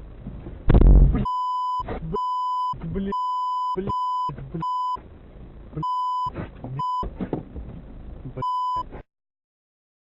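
Censor bleeps: a steady 1 kHz beep tone cuts in eight times over short stretches of a man's voice. A loud thump comes just before the first beep, and the sound cuts off abruptly near the end.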